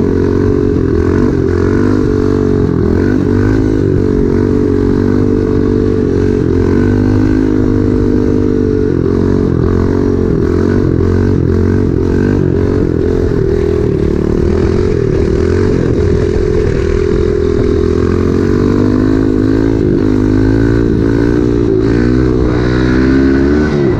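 Small pit bike engine running while being ridden, its pitch rising and falling again and again as the throttle is opened and closed.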